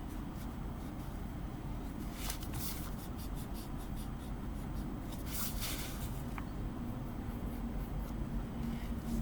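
Eraser rubbing on paper in short bursts of quick strokes, rubbing out shading that has strayed outside the drawing, over a steady low hum.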